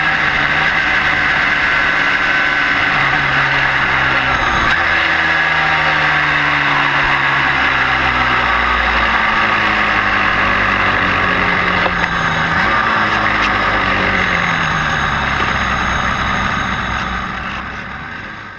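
Yamaha RD350 two-stroke twin engine heard onboard, its pitch falling as the bike slows, with a brief rise about four seconds in and again around twelve and a half seconds in. Wind rushes over the microphone, and the sound fades out near the end.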